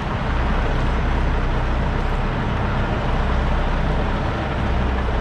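Semi-truck's diesel engine running steadily at low revs while the tractor backs up under a trailer, with a steady hiss over it.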